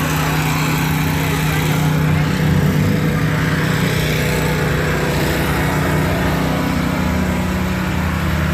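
An engine running steadily at a constant speed, with an even, unchanging pitch.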